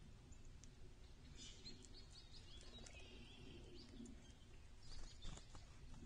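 Faint songbird calls: a quick run of short high chirps, then a longer buzzy note, with a few faint clicks near the end.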